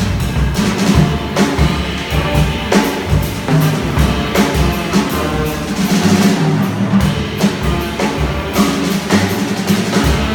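Live jazz combo playing, the drum kit prominent with frequent snare, bass drum and cymbal strikes over sustained pitched instruments.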